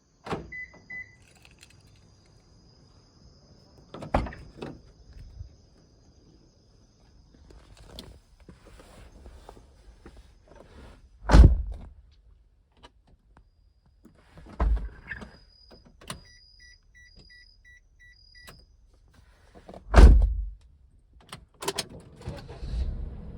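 Daihatsu Tanto Custom kei car: car doors shutting with heavy thunks, a steady warning tone and then a short run of evenly spaced chime beeps, and near the end the 660 cc three-cylinder engine starting and settling into a steady idle.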